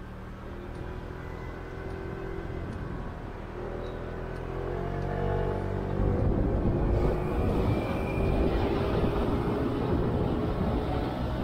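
A vehicle running with a low steady hum that rises in pitch, then gets louder from about six seconds in as a rush of road and wind noise takes over.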